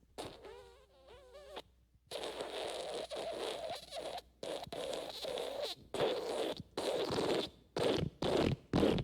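Fart sound effects: a short, wavering, pitched fart of about a second, then after a brief gap a long fart of several seconds with brief breaks, turning near the end into a quick string of short, louder blasts.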